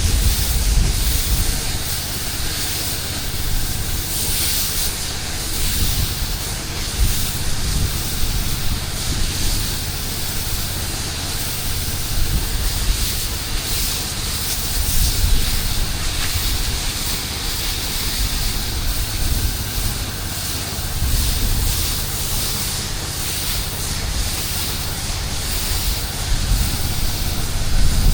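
Pressure washer spraying water on a concrete driveway: a steady hiss of the high-pressure spray over a low rumble.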